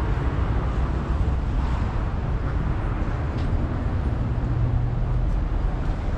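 Steady outdoor city street noise with passing traffic.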